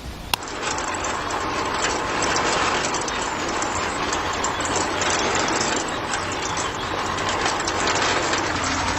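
A steady mechanical clattering, dense with small rapid clicks, beginning with one sharp click just after the start.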